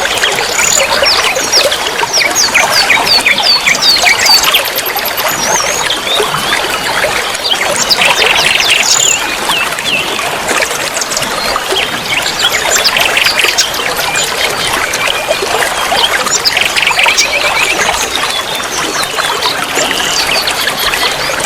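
Many small songbirds chirping and trilling at once, densely overlapping, over a steady trickle of running water.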